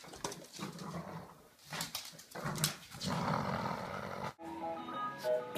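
A dog making noises in short, irregular bursts. About four seconds in, it cuts off suddenly and music starts.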